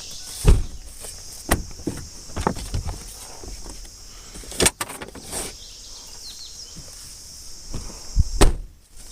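A string of irregular knocks and thumps of things being shifted and handled, the loudest about half a second in and two near the end, with crickets chirping steadily behind.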